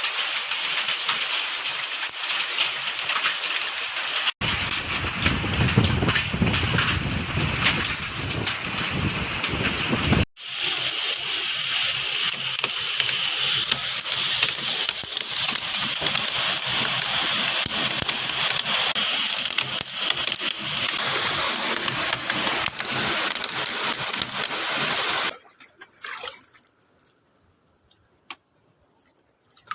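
Heavy rain with hail coming down in a strong wind: a dense, steady downpour hiss. For a few seconds it carries a deeper rumble. Near the end it cuts off abruptly to near quiet with a few faint clicks.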